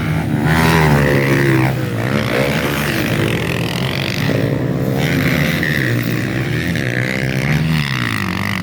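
Several motocross dirt bikes racing on the track, their engines revving up and down through the gears as the riders jostle for position.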